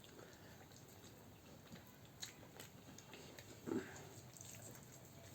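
Faint chewing sounds of someone eating, with a few soft clicks and one brief louder sound about two-thirds through.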